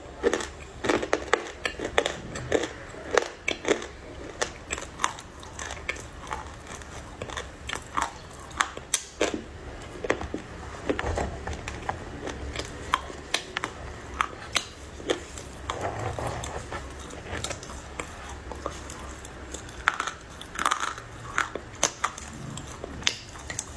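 Close-up biting and chewing of dry, crunchy clay, with many sharp irregular crunches.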